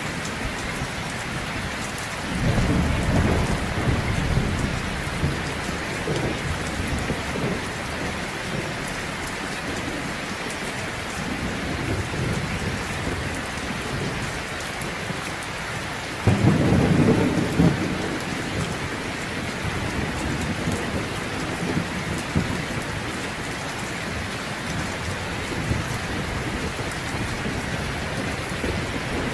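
Heavy rain falling steadily, with thunder rumbling twice: once a few seconds in and again, louder and starting suddenly, about halfway through.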